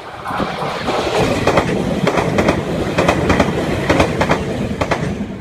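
Meitetsu stainless-steel electric train passing through the station, its wheels clacking loudly and repeatedly over rail joints. The sound builds in the first second and fades near the end as the last car goes by.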